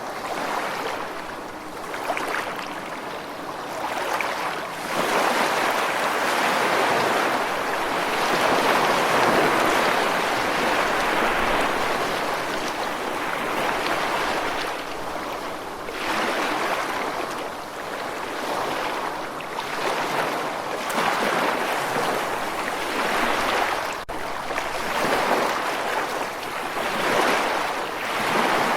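Ocean waves washing onto a shore, a continuous rushing surf that swells and eases every few seconds.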